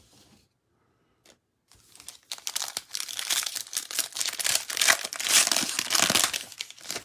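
Plastic trading card pack wrapper being torn open and crumpled in the hands, a dense crackling crinkle that starts about two seconds in and runs for about five seconds.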